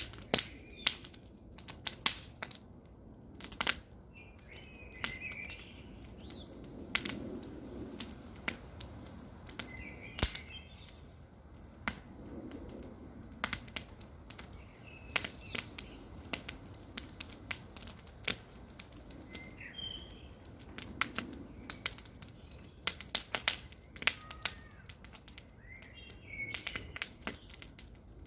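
Wood campfire crackling, with frequent sharp pops and snaps over a soft low hiss. A bird chirps briefly every few seconds in the background.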